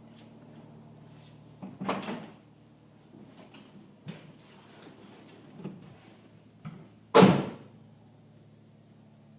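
Car door clunking open, a few small knocks, then slammed shut with one sharp bang a few seconds later.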